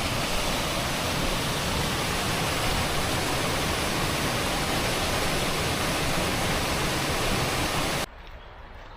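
Waterfall rushing, a steady full hiss of falling water close by; it cuts off suddenly near the end.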